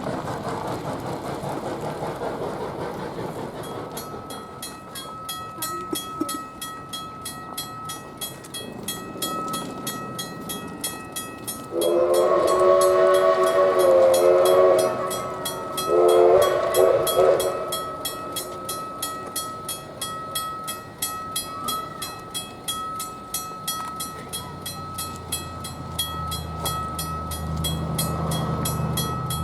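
A railroad crossing's US&S teardrop mechanical bell starts ringing about four seconds in, a fast steady ding that carries on throughout. A locomotive horn blows a long blast and then a shorter one, and a low diesel rumble comes in near the end as the train nears.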